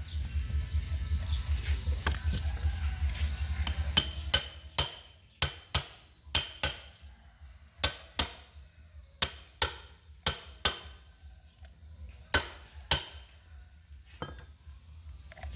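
Sharp metallic hammer taps, mostly in pairs about half a second apart, each with a brief ringing tail. A fast low rumbling runs under the first four seconds before the tapping starts.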